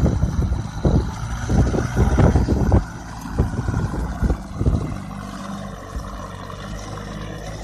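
Tractor engine running steady, heard behind irregular low buffeting for the first three seconds or so, then on its own as a quieter, even hum.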